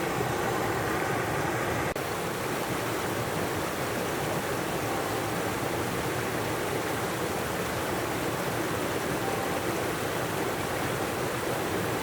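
Steady, even rushing noise, like flowing water or wind on the microphone, with a brief dropout about two seconds in.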